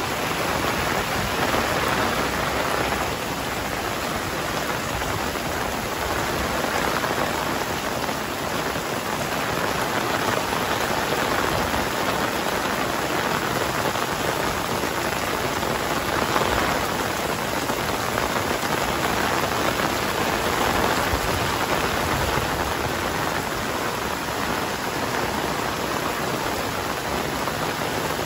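Heavy rain falling in a dense, steady hiss that swells and eases slightly every few seconds.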